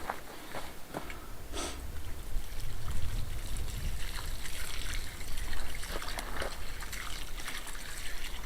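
Water poured and trickling into a post hole, wetting the dry-mix concrete around a newly set post so that it sets.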